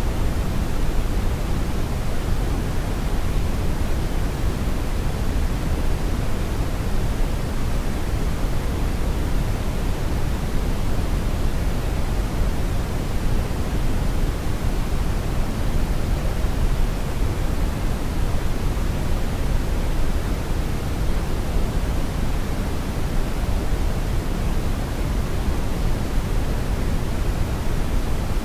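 Steady brown noise: an even, unchanging deep rushing hiss, strongest in the low end and falling off toward the highs, with no rhythm or events.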